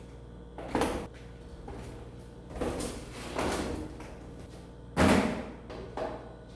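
A few separate knocks and clatters, the loudest about five seconds in, over a steady low hum.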